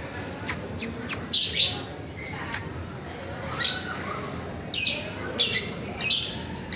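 Lovebird giving a series of short, high-pitched squawks, about ten of them spaced unevenly, the loudest about a second and a half in and over the last two seconds.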